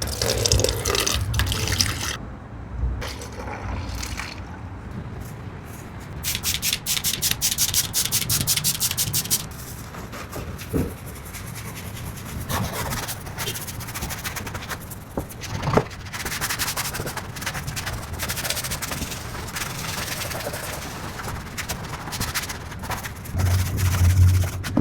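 Scrubbing and rubbing on a car door panel as it is detailed, with a stretch of rapid back-and-forth strokes partway through and some wet, liquid sounds.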